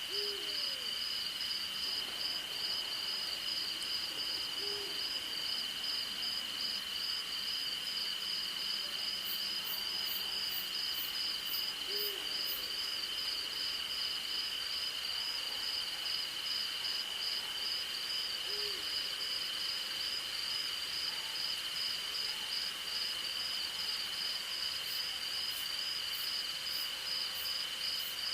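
An owl hooting: short single low hoots every several seconds, over a steady high-pitched insect drone and a fast pulsing cricket trill.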